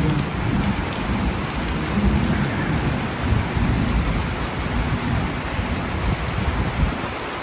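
Heavy rain pouring down steadily, with thunder rumbling low underneath.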